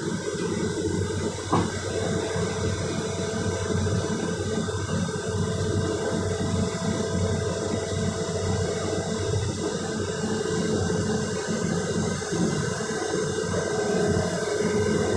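Hydraulic excavator diesel engines running steadily, a continuous rushing hum, with a single short knock about a second and a half in.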